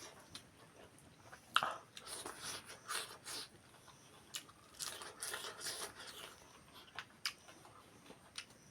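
A person chewing and biting food close to the microphone: irregular small clicks and short crunching bursts.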